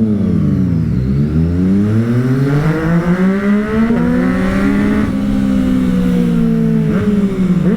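Motorcycle engine accelerating hard: its pitch dips briefly, then climbs for about four seconds, holds steady, and drops near the end.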